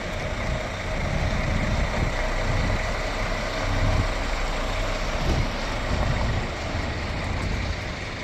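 Scania R450 tipper truck's diesel engine running steadily, a continuous low rumble with a steady whine over it.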